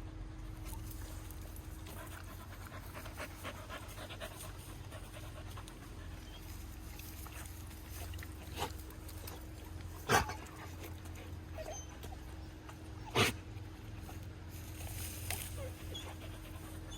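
Excited dogs panting over a steady low hum, with two short, sharp loud sounds about ten and thirteen seconds in.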